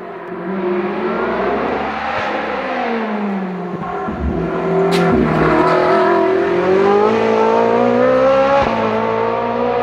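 A red Ferrari's engine accelerating hard up the road past the listener: its note drops about two seconds in, then climbs steadily as it revs out, loudest in the second half as it goes by.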